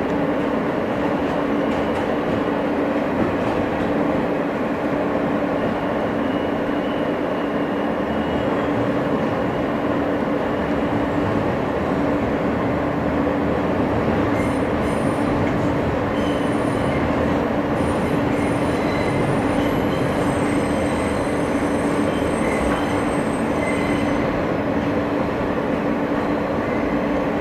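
Inside an R160 subway car running at steady speed between stations: a continuous rumble of wheels on rail with a constant low hum.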